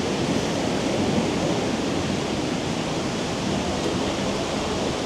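Haew Narok waterfall in very strong flow: a steady, dense rush of falling water.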